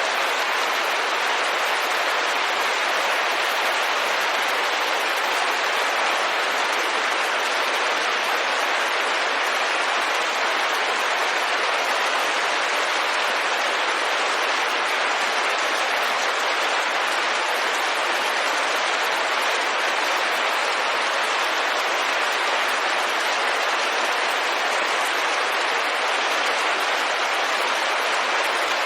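Steady, dense rain falling on a window pane, an even hiss of drops at an unchanging level with no thunder or other sounds.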